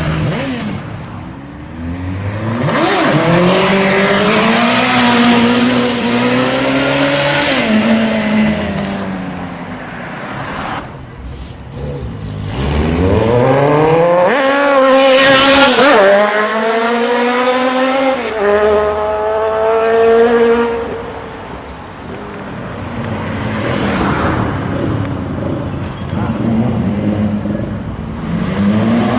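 Sport motorcycles accelerating hard past the roadside, one after another. Each engine's pitch climbs steeply through the revs and then drops at a gear change or as the bike goes by. The strongest run comes about halfway through.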